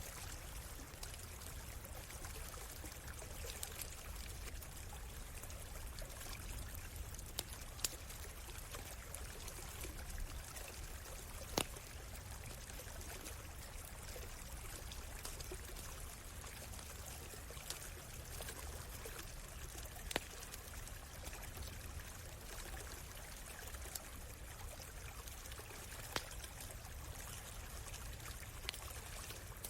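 A small stream trickling and pouring steadily, with a campfire crackling over it: a few sharp single pops, the loudest about twelve and twenty seconds in.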